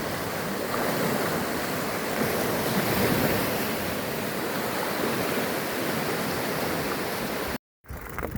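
Steady rushing of wind buffeting the microphone while cycling, with a gusty low rumble; it cuts off suddenly near the end.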